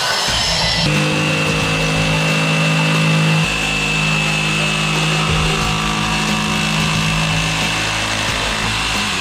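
Electric jigsaw running steadily as it cuts the vanity's wood panel, with a constant high motor whine.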